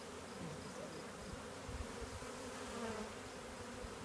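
Steady buzzing of a large swarm of honey bees, thousands of them flying and crawling around an opened box.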